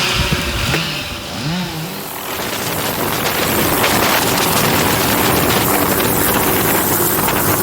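A chainsaw revs up and down for about two seconds. Then the steady, loud noise of the MD500D helicopter's rotor and turbine takes over, mixed with wind.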